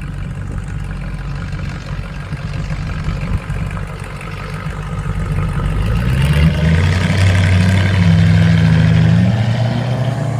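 Car engine running at a low steady note, then from about six seconds in revving up as the car pulls away, holding a higher steady note before rising again near the end.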